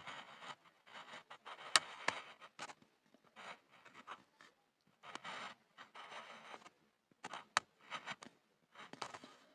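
Pencil scribbling on a board: uneven runs of scratching strokes with short pauses between them, and a few sharp clicks of the point striking the surface.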